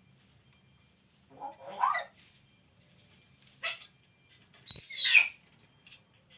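Pet parrot calling three times, short harsh squawks with the loudest a falling screech about five seconds in.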